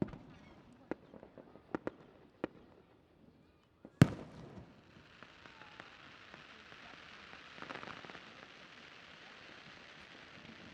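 Fireworks display: a sharp bang, a few short pops, then a loud shell burst about four seconds in, followed by several seconds of dense crackling.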